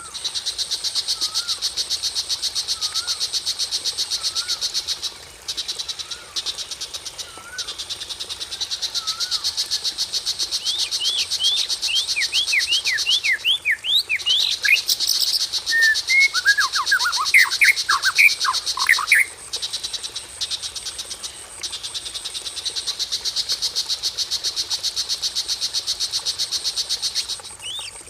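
Recorded songbird calls from a bird-keeping lure and master-song track. A fast, even pulsing trill runs through with a few short breaks. In the middle come a run of quick sweeping chirps and then louder, lower whistled notes.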